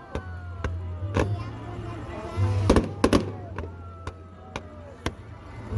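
Aerial fireworks going off: a string of sharp bangs and crackles, the two loudest close together about three seconds in, with slow falling whistle tones, over background music.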